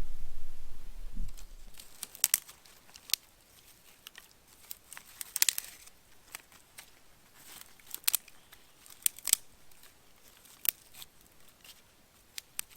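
Sparse, irregular sharp crackles and clicks, after a low rumble that fades out within the first second or two.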